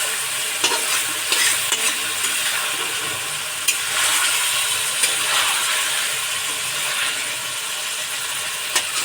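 Marinated chicken sizzling steadily as it fries in a kadhai while it is stirred, with several sharp scrapes and clicks against the pan.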